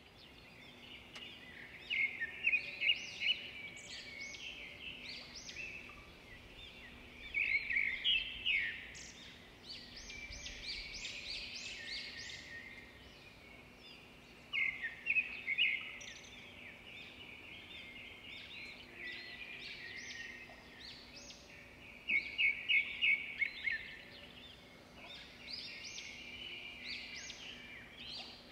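Birds chirping, with loud bouts of rapid repeated notes about every six to seven seconds, over a faint steady hum.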